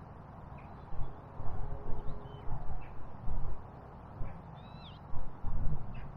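Irregular low rumbling thumps in several clusters, with faint, short high bird chirps and a couple of quick gliding calls over a steady outdoor background.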